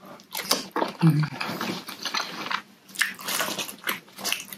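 Mouth chewing a slice of raw salmon sashimi: a run of quick, irregular smacks and clicks, with a short low hum about a second in.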